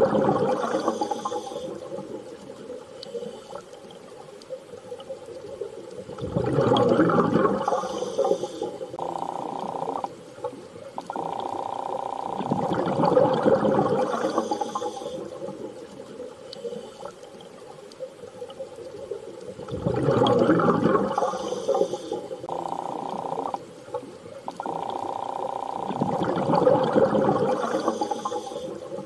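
Underwater sea ambience: a rushing water swell rises and falls about every six to seven seconds, with steady humming tones between the swells.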